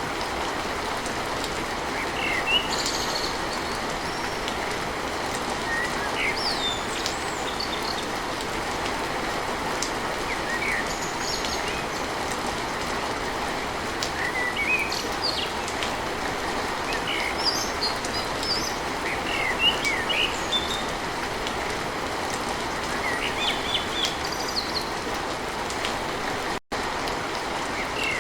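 Steady rain with birds chirping on and off over it; the sound cuts out for an instant near the end.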